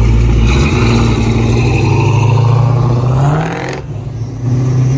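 Fox-body Ford Mustang engine rumbling as the car pulls out, then revving up with a rising note as it accelerates away, cutting off sharply about four seconds in.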